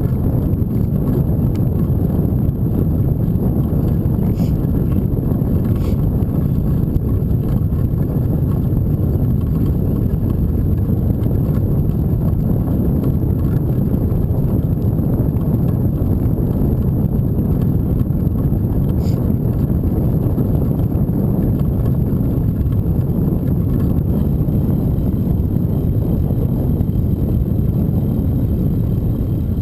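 Steady low rumble of wind buffeting the microphone and rolling noise during a bike ride, with a few faint ticks.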